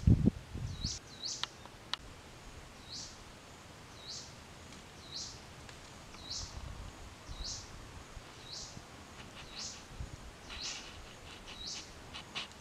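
A bird calling a short, high note that falls in pitch, repeated about once a second. In the first second there is a louder scrape and knock of a hand digging through dry, crumbly soil.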